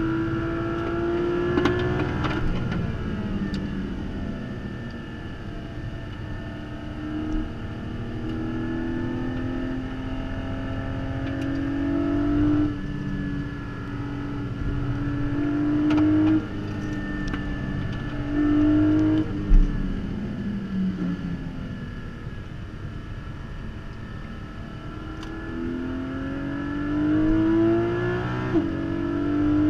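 Porsche Cayman GT4's naturally aspirated flat-six at speed on track, heard from inside the cabin. Its note climbs under throttle, drops suddenly at several quick PDK gear changes, falls away as the car slows for a corner about two-thirds of the way through, then climbs again.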